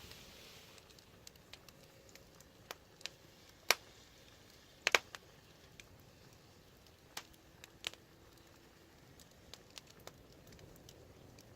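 Wood fire crackling: scattered sharp pops and snaps over a faint hiss, the loudest a single pop about four seconds in and a quick pair about a second later.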